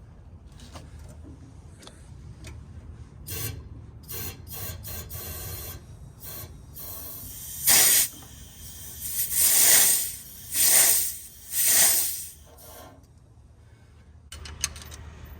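A run of short scraping strokes from hand tools, then four loud bursts of hissing pressurised gas, the first brief and the other three about a second each.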